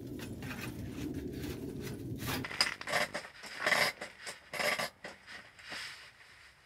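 A low rumble for the first couple of seconds, then irregular clinks and clatter of hard objects being handled, thinning out near the end.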